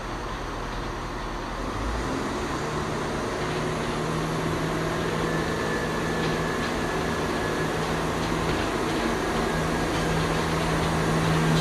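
A train's diesel engine running at the platform, a steady drone that grows slowly louder, with a low hum coming in about two seconds in.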